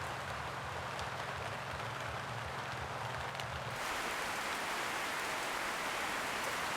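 Steady rain falling, with single drops ticking over a low steady hum. About four seconds in it cuts to a louder, hissier downpour and the hum is gone.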